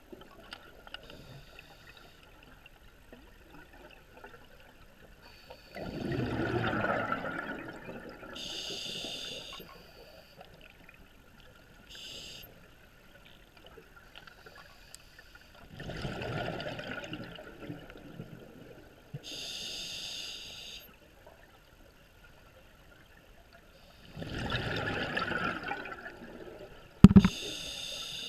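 Scuba diver breathing through a regulator underwater: three rushes of exhaled bubbles several seconds apart, each followed by a short inhale through the regulator that hisses with a buzzing tone. A sharp knock sounds near the end.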